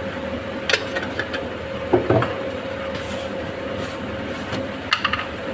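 Steady mechanical background hum with a few light clicks and knocks, typical of a spoon tapping against spice containers and a pot while spices are added.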